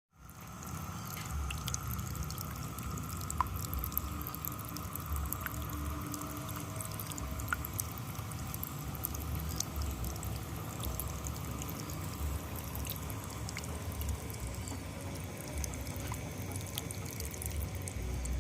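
Small artificial waterfall running in a bird aviary: a steady trickle and splash of water, with small scattered clicks.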